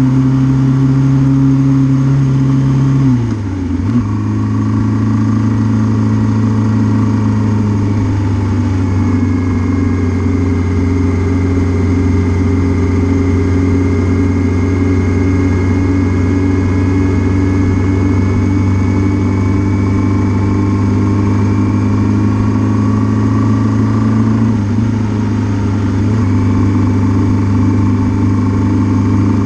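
Suzuki GS650G motorcycle's inline-four engine running steadily. About three seconds in its speed drops a step, and it then holds at the lower speed.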